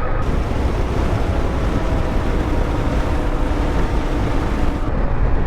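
Motorcycle riding at speed on tarmac: steady wind rush over the microphone with the engine and road rumble running underneath.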